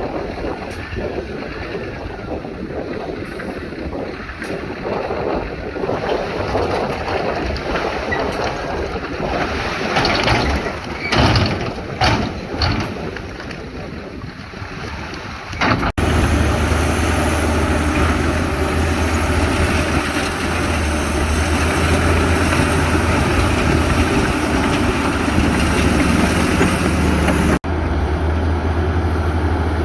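Heavy earthmoving machinery running with diesel engine noise, with a few loud knocks about ten to thirteen seconds in. It changes abruptly at a cut about halfway through to a louder, steadier deep engine drone, and there is another brief break near the end.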